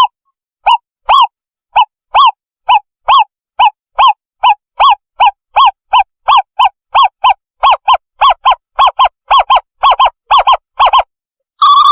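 Owlet call played as a bird-trapping lure: a series of short whistled hoots that speed up from about two a second to about four a second, breaking into a rapid bubbling trill near the end.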